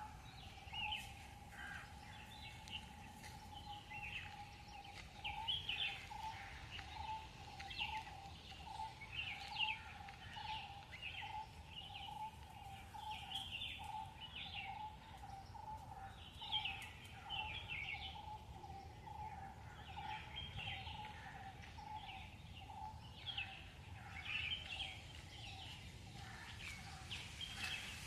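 Birds chirping, many short calls scattered throughout, over a steady, faintly pulsing high hum.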